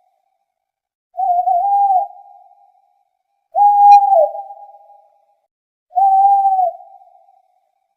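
An owl hooting: three single wavering hoots, each under a second long, about two and a half seconds apart, each trailing off after it.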